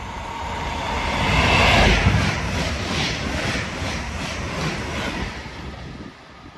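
Two coupled DSB IR4 (class ER) electric multiple units passing through the station at about 174 km/h without stopping. The noise builds to a peak about two seconds in, then carries a rhythmic clatter of wheelsets about twice a second as the carriages go by, and fades as the train draws away.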